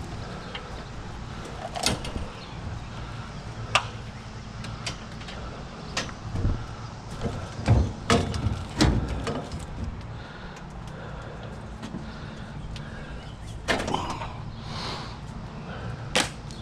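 Heavy scrap metal being shifted and rearranged on a trailer: scattered clanks and knocks with scraping, a cluster of heavy thuds about halfway through, over a steady low hum.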